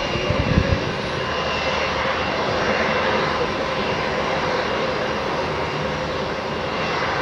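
Boeing 737-800 jet engines (CFM56-7B turbofans) running steadily, a dense roar with a held whine in it. Wind buffets the microphone with low rumbles in the first second.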